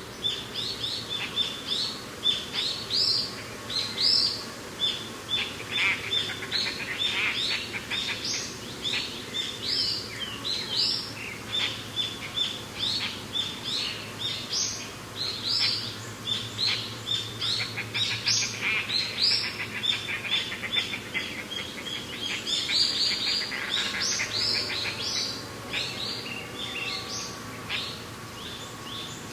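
Birds chirping and singing, many short, quick notes repeated and overlapping, over a steady hiss of wind. The calls thin out near the end.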